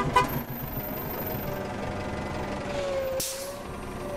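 Outdoor street sound with a vehicle engine running steadily, a brief hiss about three seconds in and a faint drawn-out tone around then.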